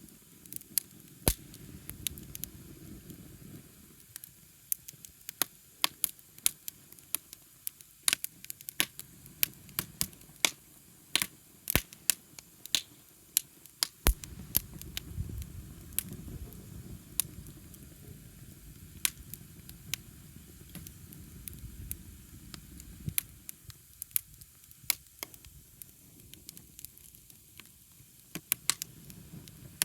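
Wood fire crackling, with many sharp, irregular pops and snaps, and a low rumble that swells twice and fades.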